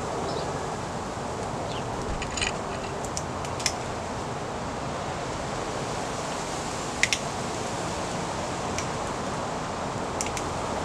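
Small birds at seed feeders: a few short, sharp, high chip notes, the loudest pair about seven seconds in, over a steady background hiss.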